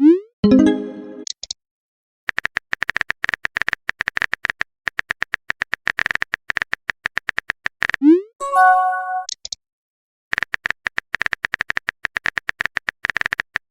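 Smartphone keyboard typing clicks in quick runs, broken at the start and again about 8 seconds in by a short rising swoop and chime of a text-message alert.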